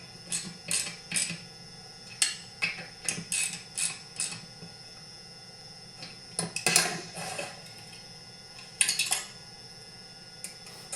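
Small metal hand tools clicking and clinking on the saw as the magneto coil bolts are tightened down, in several short bursts of sharp clicks.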